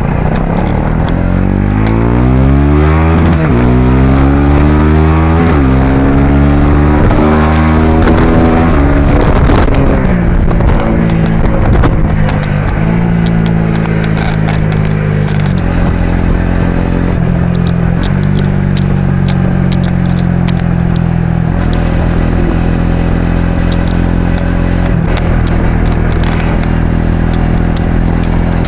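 Suzuki V-Strom SX 250's single-cylinder engine and exhaust pulling hard through the gears. The pitch climbs and drops back four times, once at each upshift, then settles into a steady drone at cruising speed.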